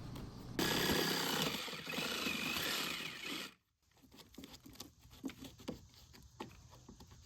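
A power saw running steadily as it cuts through a rotted wooden deck railing, stopping suddenly about three and a half seconds in. Faint scattered clicks and knocks follow.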